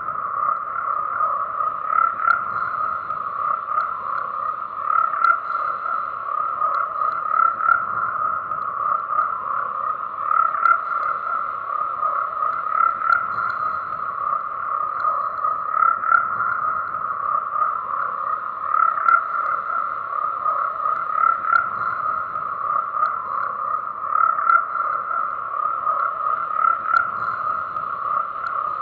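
A dense chorus of many frogs calling without pause, the calls overlapping into a steady, buzzy drone that swells a little every few seconds.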